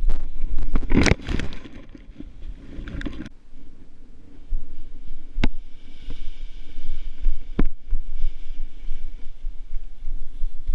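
Wind buffeting the microphone in strong gusts: a heavy rumbling rush for the first three seconds or so, then a lighter steady rumble with a few sharp knocks.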